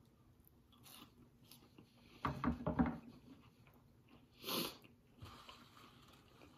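Close-miked chewing of a crinkle-cut french fry: soft wet mouth clicks, with a louder spell of chewing about two seconds in and a short breathy puff at about four and a half seconds.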